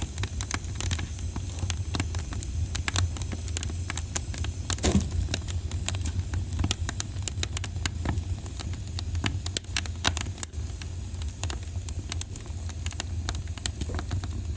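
Wood fire burning in a fireplace: a dense run of sharp crackles and pops, several a second, with a louder pop about five seconds in, over a steady low rumble.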